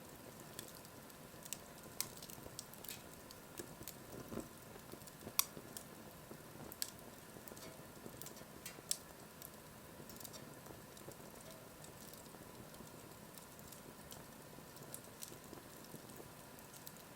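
Wood fire burning: scattered crackles and sharp pops over a low steady hiss, the loudest pop about five seconds in.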